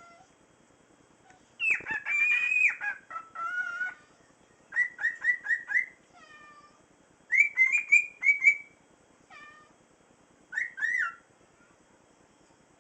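Cockatiel chirping and whistling in quick groups of short rising calls, with a louder, harsher call about two seconds in.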